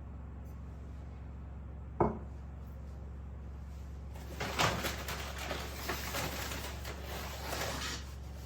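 Kitchen handling sounds: a single sharp knock about two seconds in, then a few seconds of rustling and light clattering with several small knocks, over a steady low hum.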